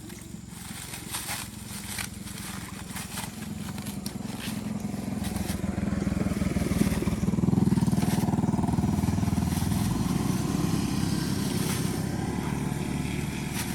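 A small engine running steadily, getting louder about six seconds in and staying loud, with a few sharp knocks in the first few seconds.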